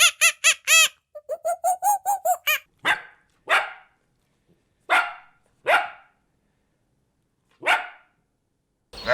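Two quick runs of high-pitched squeaks, about six a second, then a dog barks five times with pauses of about a second or more between the barks.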